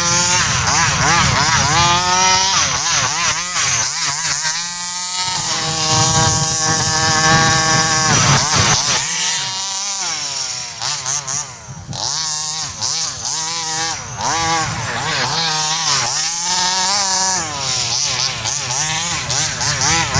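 30.5cc Rovan two-stroke petrol engine of a 1/5-scale RC Baja buggy, revving up and falling back again and again as the throttle is worked, its pitch rising and dropping every second or two.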